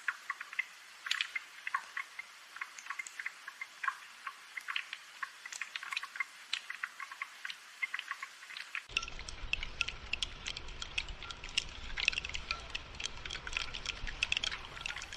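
Spring rain falling as an irregular patter of individual drops dripping and tapping. About nine seconds in, a low rumble joins it under the drops.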